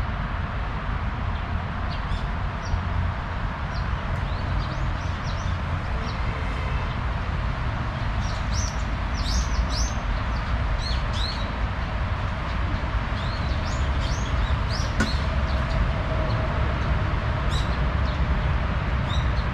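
Small birds chirping in many short, high, quick notes, busiest around the middle, over a steady low rumble.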